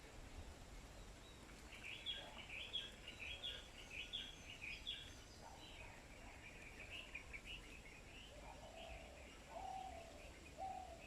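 Small birds chirping in quick runs of high notes, starting about two seconds in, with a few lower, short calls near the end.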